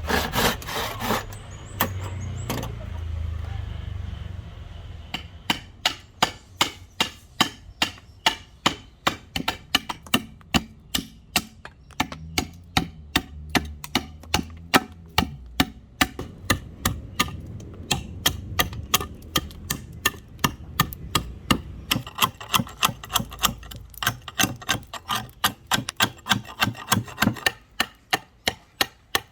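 Sawing through wood for the first few seconds, then a steady run of sharp wooden knocks, about two or three a second, keeping on to the end.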